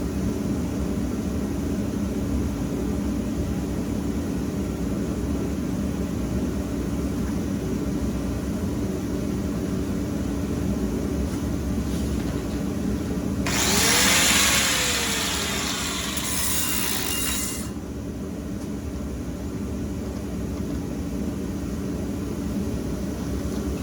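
A power tool running steadily while cutting through steel angle iron, splitting it lengthwise down the seam. About halfway through, the cut turns louder and harsher for about four seconds, then settles back.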